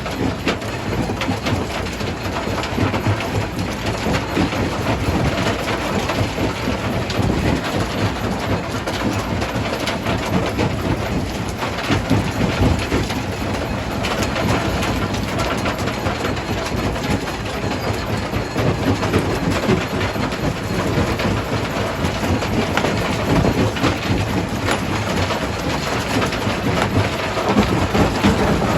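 Stone crusher running under load: a steady heavy rumble with dense, irregular knocking and clattering of rock being broken and fed through.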